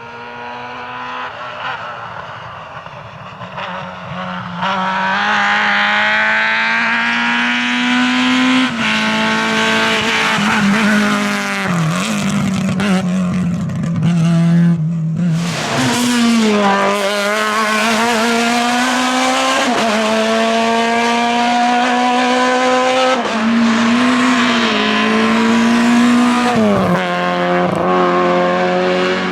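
Naturally aspirated Groupe F2000 rally car engines at high revs, rising and falling through gear changes as the cars accelerate and brake on a stage, with some tyre squeal. The engine sound builds in over the first few seconds and breaks off briefly about halfway through before resuming.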